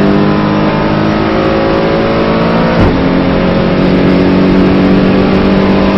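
Aston Martin GT4 race car's engine under full throttle, heard from inside the cockpit, climbing steadily in pitch. About three seconds in a quick upshift gives a short clunk and a drop in pitch, then the engine pulls up through the revs again.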